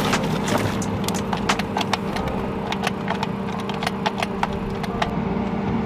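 Irregular sharp clicks and taps, many in quick succession, over a steady low hum.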